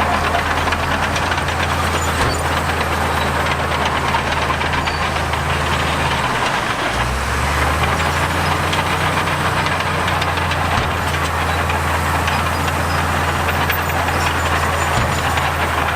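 Heavy diesel earthmoving machinery running steadily under load, a deep engine drone with a dense mechanical clatter over it. The low engine note drops out briefly about six and a half seconds in, then picks up again.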